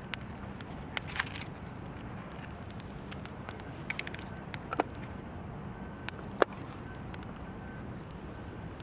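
Wood fire crackling, with scattered sharp pops over a steady low background noise; the loudest pops come about five and six and a half seconds in.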